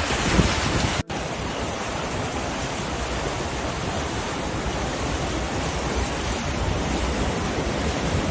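Steady rushing water noise, with a brief dropout about a second in where the footage cuts.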